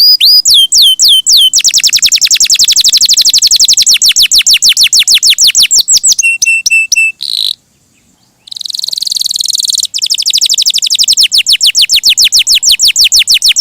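Domestic canary singing loudly in long, rapid trills, mixed with downward-sweeping notes and a few short held notes. The song breaks off briefly about eight seconds in.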